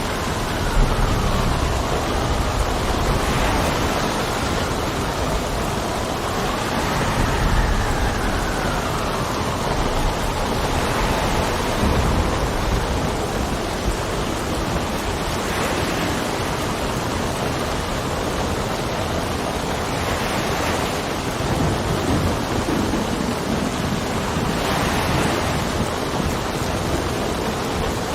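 Steady rain with gusting wind. For the first ten seconds or so the wind whistles in a wavering tone that rises and falls, over a low rumble.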